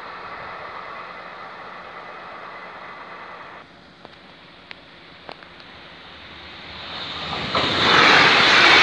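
A train approaching a level crossing, its rolling noise swelling over the last couple of seconds and loud near the end. Before that, a steady humming tone cuts off abruptly about a third of the way in.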